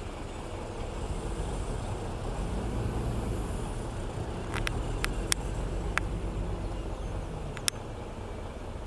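Diesel engine of heavy road-building machinery running steadily at a low drone. Several sharp clicks come in the second half.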